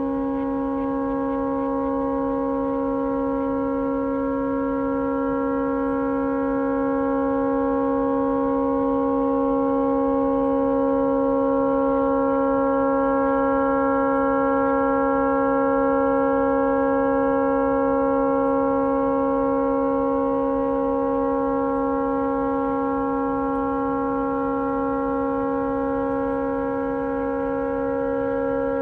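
A tugboat's horn stuck on, sounding one unbroken steady tone. The horn has malfunctioned and will not shut off.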